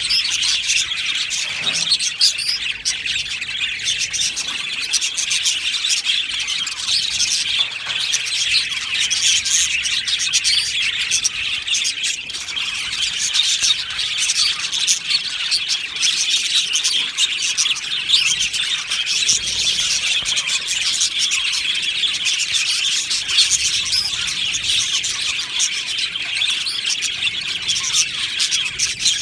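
A colony of budgerigars chattering and chirping continuously, many short warbling calls overlapping with occasional squawks.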